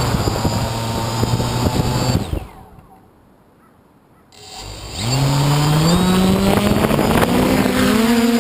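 DJI F450 quadcopter's brushless motors and 8-inch propellers humming at low throttle. About two seconds in they fall almost silent for roughly two seconds. They then spin back up with a rising pitch and settle into a steady whine.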